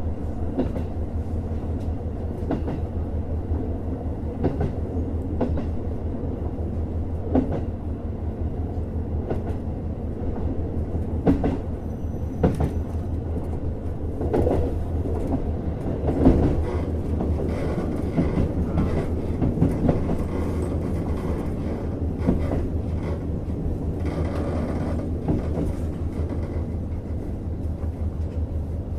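Interior running sound of a JR Hokkaido KiHa 150 series diesel railcar: a steady low diesel engine drone and rumbling wheel and track noise, with scattered clicks of the wheels over rail joints.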